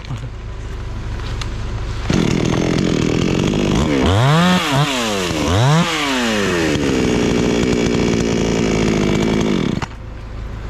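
Chainsaw starting up about two seconds in, revved up and down twice, then running steadily at a lower pitch before cutting off near the end, over a steady low engine rumble.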